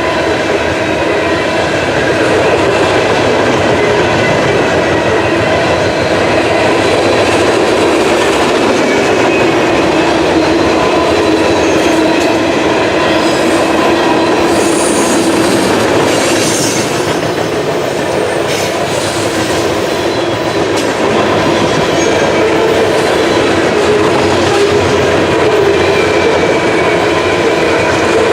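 Freight train cars rolling steadily past, wheels clattering on the rails, with a steady squeal from the wheels.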